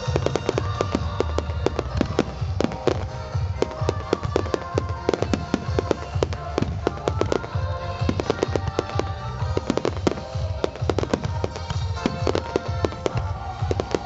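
Fireworks display: a dense, unbroken run of bangs and crackles from bursting shells and firing fountains, several reports a second, over a low rumble.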